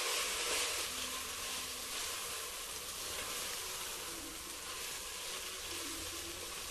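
Sliced onions, green chillies, mint and ginger-garlic paste sizzling steadily in hot oil in a pressure cooker as they are sautéed for a biryani base.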